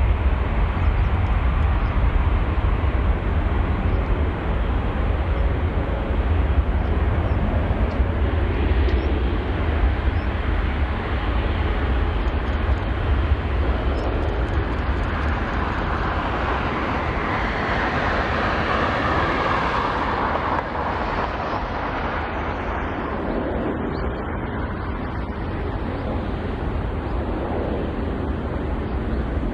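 Jet airliner engine noise at high power: a loud, deep rumble that swells partway through, then slowly fades.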